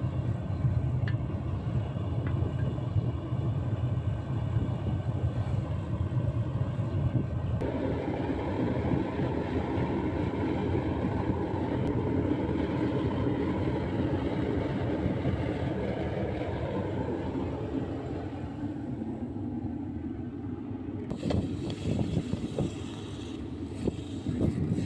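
Gas-fired, fan-blown casting furnace burner running with a steady, deep rushing noise. Its tone shifts about a third of the way in and eases later. Scattered knocks and clicks come near the end.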